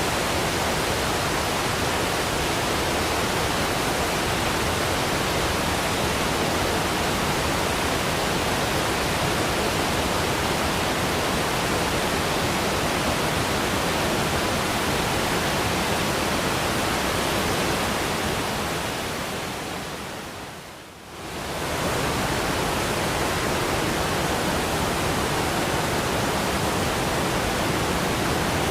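Steady, even rush of a waterfall. About twenty seconds in it fades down briefly, then comes straight back at the same level.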